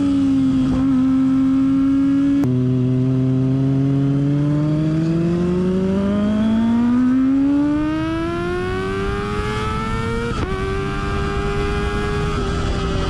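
Kawasaki ZX25R's inline-four engine through a Yoshimura R77 exhaust under way: the pitch holds steady, drops sharply at a gear change about two and a half seconds in, then climbs steadily under acceleration until another upshift about ten seconds in, after which it holds steady.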